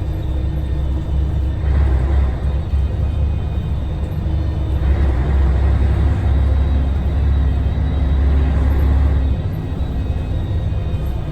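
Scania L113TRB bus's 11-litre six-cylinder Scania DSC1171 diesel running under load with a deep rumble, which eases off about nine seconds in.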